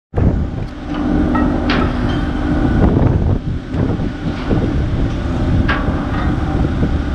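Car ferry running, with a steady low engine drone under wind blowing across the microphone. Two short, sharp higher sounds come through, about two seconds in and again near six seconds.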